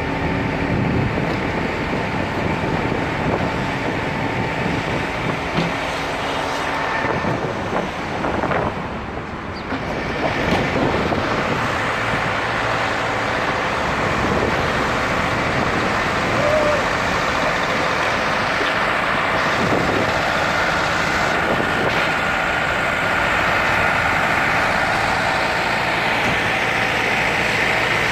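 Street traffic noise with a heavy vehicle's engine running steadily.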